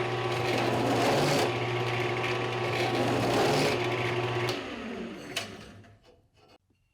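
Small electric power tool running with a steady motor hum and a grinding noise, then switched off about four and a half seconds in and winding down to a stop.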